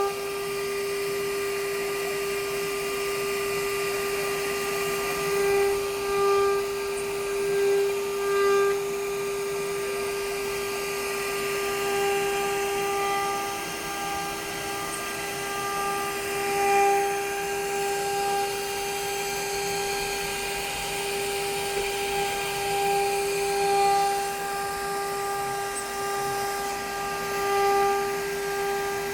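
The high-speed spindle of a CNC machining centre runs with a steady high whine. Its loudness swells and falls back now and then.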